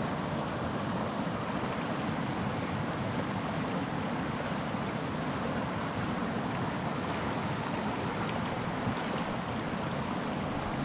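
Small mountain stream's water rushing steadily.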